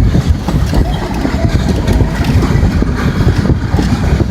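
Coal hopper cars of a long freight train rolling past at speed: a loud, steady low rumble of steel wheels on the rails with rapid clattering clicks.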